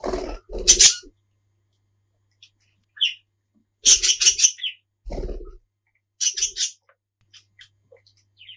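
Young budgerigar calling in short bursts of squeaky, puppy-like chirps, some in quick runs of three or four notes; calls of this kind come from a happy, excited budgie.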